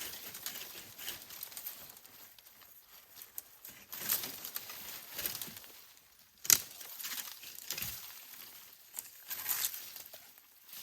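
Irregular crunching and rustling of dry leaves and twigs, with one sharp snap about six and a half seconds in.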